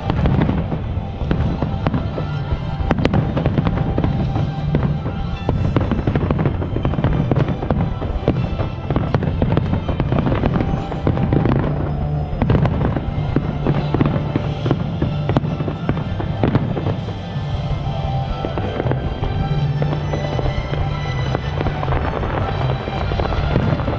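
Fireworks display: shells bursting and crackling in quick, continuous succession, with music playing alongside.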